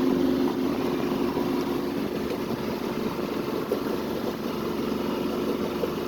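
A sailboat's engine running steadily as the boat motors under power, with water and wind noise around it.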